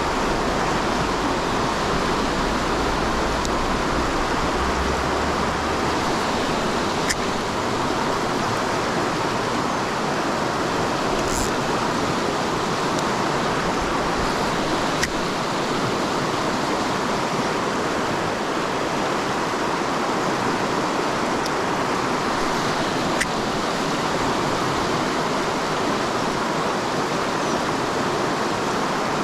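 Waterfall pouring into a pool: a steady rush of falling water, with a few faint ticks over it.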